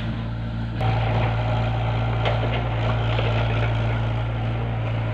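An engine running steadily, getting louder about a second in.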